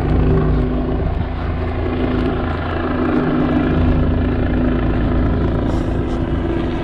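Police helicopter hovering overhead: a loud, steady rotor and engine sound.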